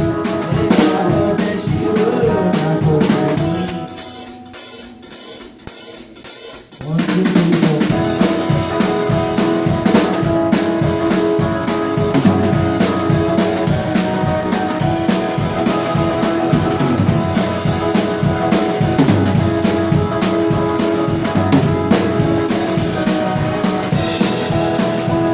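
Instrumental break of a live guitar-and-drums duo: electric-band guitar and a drum kit playing together, with no singing. About four seconds in, the sound thins to a few scattered hits for a few seconds, then the full band comes back in together.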